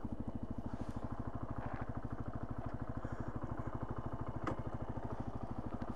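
Benelli TNT 125's single-cylinder four-stroke engine idling with a steady, even, fast pulse. A single short click comes about four and a half seconds in.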